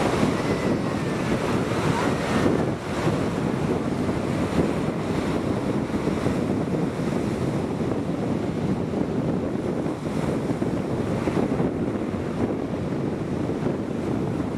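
Wind buffeting the microphone: a steady, loud rushing that swells and eases unevenly.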